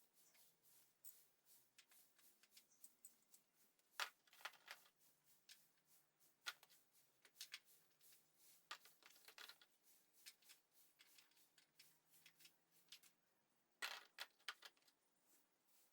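Faint, irregular clicks and light taps, scattered unevenly, with small clusters about four seconds in and near the end.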